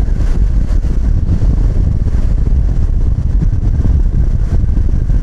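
Harley-Davidson Low Rider ST's 117 cubic-inch V-twin engine running steadily while the bike is ridden at road speed, with heavy wind rumble on the microphone.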